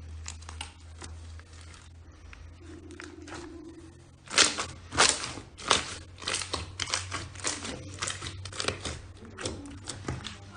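Slime being worked by hand, with an irregular run of sharp crackling pops and squelches starting about four seconds in, over a low steady hum.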